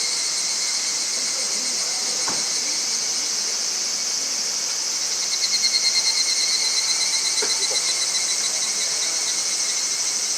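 Steady, high, pulsing chorus of insects, growing a little louder about halfway through. A couple of faint knocks can be heard under it.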